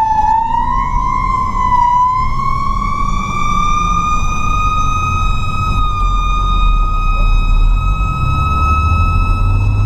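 A fire truck's Federal Q mechanical siren winding, its scream climbing slowly in pitch for several seconds and then holding steady at full speed, over the low rumble of the truck's engine.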